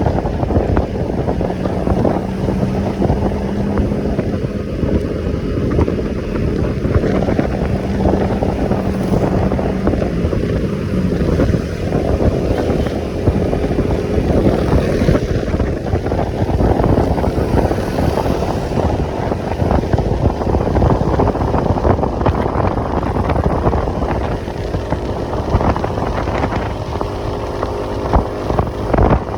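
Motorcycle engine running under way, with heavy wind rushing over the microphone.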